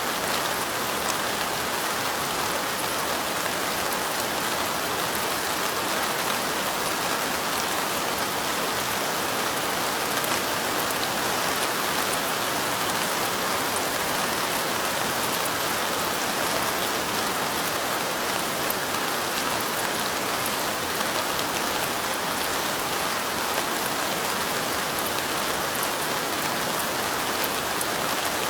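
Steady light rain: an even hiss of falling drops with faint scattered ticks of individual drops.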